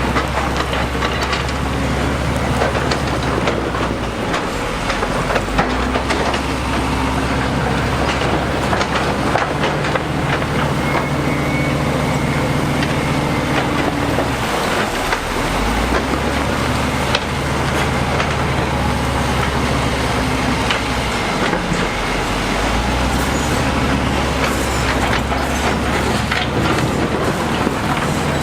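Diesel engine of heavy earthmoving machinery running under load, its pitch shifting a few times, with scattered knocks.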